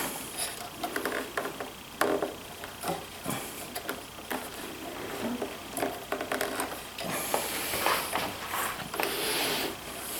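Hand work on a benchtop thickness planer being taken apart: irregular clicks, knocks and rustling as parts and tools are handled, with a longer scraping, rubbing sound from about seven seconds in.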